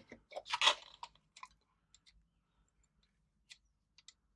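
Light clicks and rustles of cotton being threaded by hand through a sewing machine's top tension and thread guides, busiest in the first second or so, then a few isolated clicks near the end.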